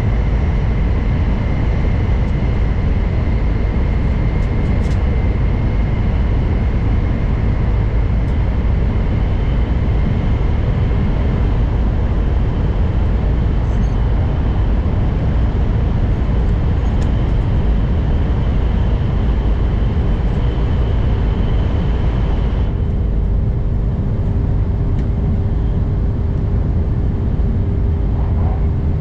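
N700 Series Shinkansen running at speed, heard from inside the passenger cabin: a steady heavy rumble with faint whining tones over it. About 23 seconds in, the hiss in the upper range drops away abruptly and a steady humming tone carries on.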